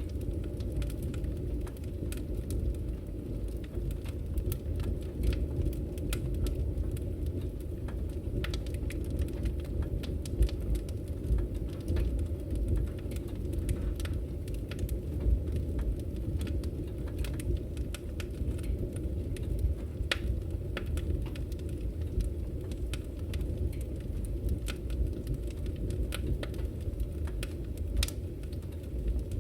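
Wood fire burning in a fireplace: a steady low rumble of the flames with frequent small, irregular crackles and pops from the firewood.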